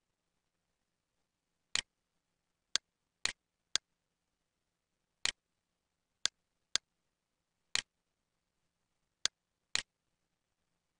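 Computer mouse button clicks: about ten sharp single clicks, some in quick pairs half a second apart, with silence between them.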